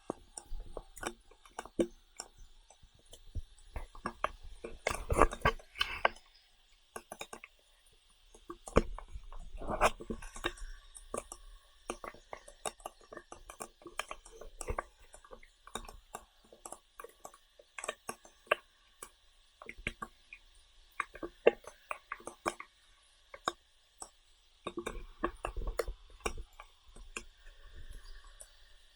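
Close-up sounds of a person eating: chewing with many sharp small clicks, and louder rustling bursts about five, ten and twenty-six seconds in. A faint steady high hum lies underneath.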